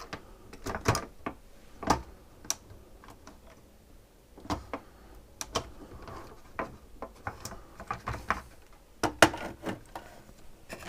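Irregular clicks and knocks of hard plastic parts being handled while a SodaStream is taken apart. The sharpest knocks come about one and two seconds in and again near the end.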